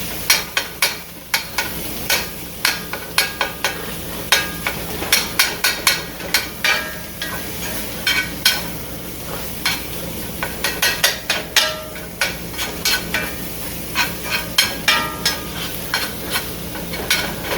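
Leftover pulled pork sizzling in a hot pan while it is stirred, the utensil clicking and scraping against the pan many times at an uneven pace.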